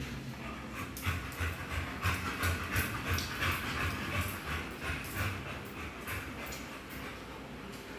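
A dog panting in quick, rhythmic breaths, about three a second, easing off near the end.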